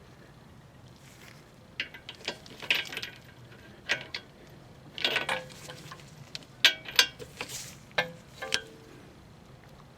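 Hand tools clicking and clinking against metal on a car's front suspension, in irregular clusters of sharp clicks, a few with a short metallic ring, while the brake line and ABS wire bracket is undone from the strut.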